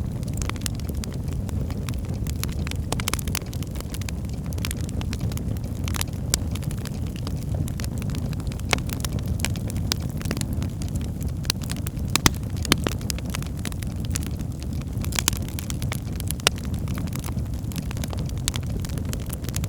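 Wood fire burning in a fireplace: a steady low rumble of flames with irregular sharp crackles and pops throughout, a few louder pops about twelve and fifteen seconds in.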